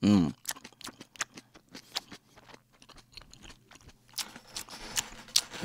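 A person chewing a mouthful of food close to the microphone: soft, scattered wet mouth clicks and smacks, growing more frequent about four seconds in.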